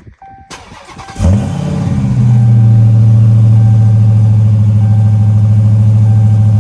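Dodge Charger Hellcat's supercharged 6.2-litre Hemi V8 cold start after sitting about 10 hours: the starter turns briefly, the engine catches about a second in with a loud flare of revs, then settles into a loud, steady fast idle while still cold.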